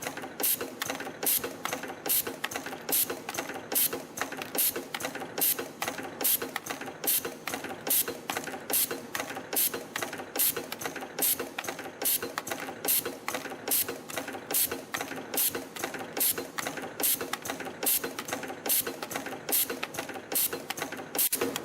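CNC spring-coiling machine forming torsion springs from 1.0 mm wire, running in a steady repeating cycle of sharp mechanical clicks and clacks. The louder strokes come a little more than once a second, in step with its rate of 72 springs a minute.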